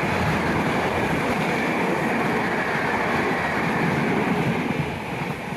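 Passenger train's coaches rolling along the rails: a steady rumble of wheels and running gear that dips a little just before the end.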